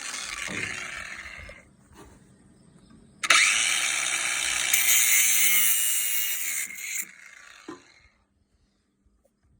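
Power tool running on metal in two bursts: one fading out under two seconds in, another starting abruptly a little over three seconds in and cutting off about seven seconds in, then a single thump.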